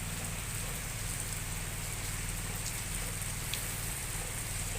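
Steady drizzle falling, an even patter of light rain with a few single drops ticking now and then.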